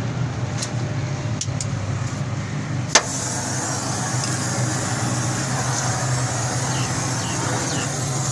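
Car engine idling steadily, a low even hum, with one sharp click about three seconds in.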